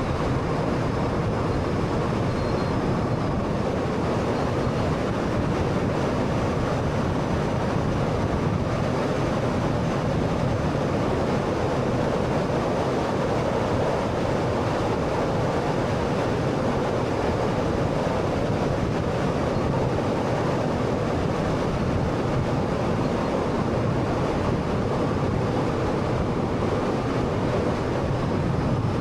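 Steady road and tyre noise of a car driving at a constant pace.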